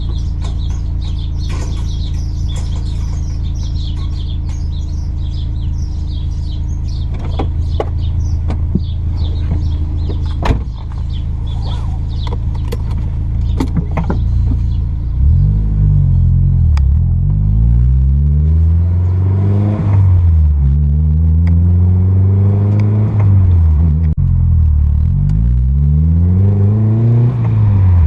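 Car engine running steadily at low revs, with high chirps and a few clicks over it. About halfway through, the car pulls away: the engine note climbs and drops again and again as it accelerates through the gears.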